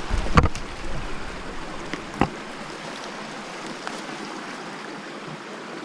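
Creek water running steadily over rocks, with a few thumps in the first half second and one sharp knock about two seconds in.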